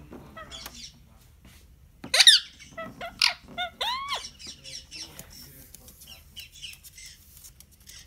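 Bird calls: one loud call about two seconds in, then several shorter calls over the next two seconds, with soft chirps and clicks between.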